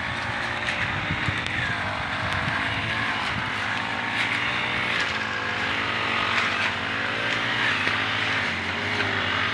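An engine running continuously, its pitch wavering slightly up and down.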